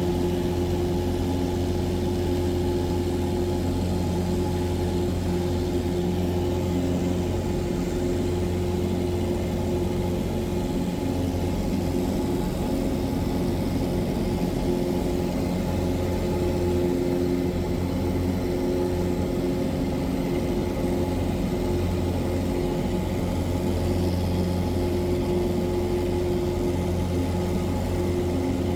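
Cessna 177 Cardinal's four-cylinder Lycoming piston engine and propeller running at a steady speed, a constant drone with no change in pitch.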